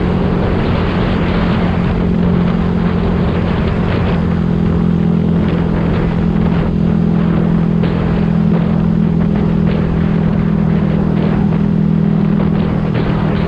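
Yamaha YZF-R125's 125 cc single-cylinder four-stroke engine running through its exhaust at a steady engine speed, the pitch holding nearly level.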